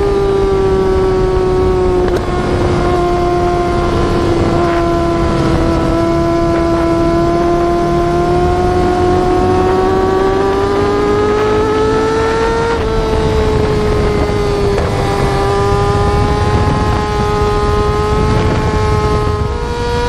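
Yamaha R6 sportbike's inline-four engine howling at high revs under sustained throttle. Its pitch sags slightly, climbs for several seconds, drops a step about two-thirds of the way through, then holds steady.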